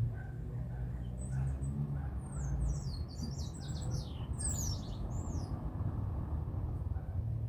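Birds giving a quick flurry of high, short chirps and falling squawk notes for a few seconds in the middle, over a steady low rumble.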